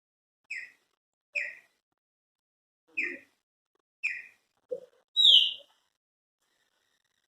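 Chopi blackbird (pássaro-preto) calling: a string of short, separate notes about a second apart, then a louder, higher note about five seconds in.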